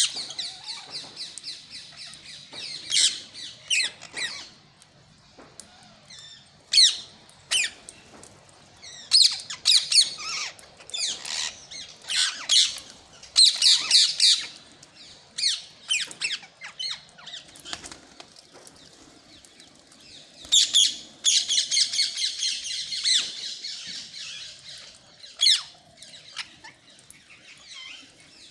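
Rose-ringed (ring-necked) parakeets giving harsh, high-pitched squawks and chattering calls in short bursts, with a longer run of rapid chatter about three-quarters of the way through.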